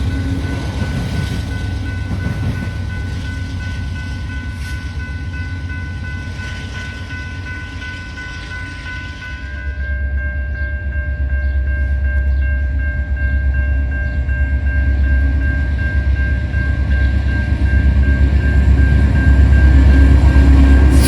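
Train running, with a continuous heavy low rumble and faint steady tones above it; the rumble grows louder about ten seconds in.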